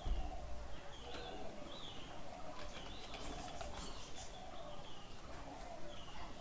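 Birds chirping over and over in the background, a short high call every half-second to a second, with lower calls beneath them. A low thump comes right at the start, and a short run of keyboard typing clicks about three seconds in.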